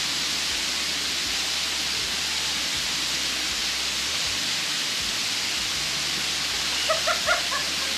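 Waterfall running: a steady, even hiss of falling water, with a few short pitched sounds about seven seconds in.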